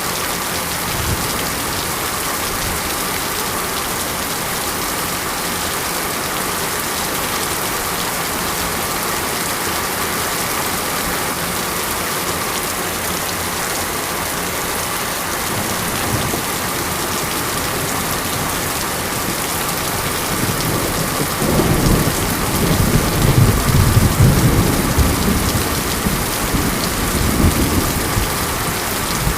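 Steady monsoon rain falling with an even hiss. About two-thirds of the way in, a roll of thunder rumbles for several seconds, rising and fading.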